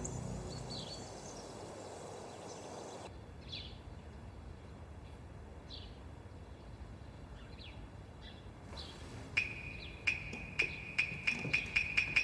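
A few short bird chirps over faint outdoor ambience. From about nine seconds in, sharp ringing ticks begin and come faster and faster.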